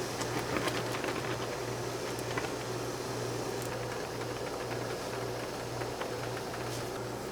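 Steady mechanical hum of a small motor or fan, with scattered light clicks and taps over it.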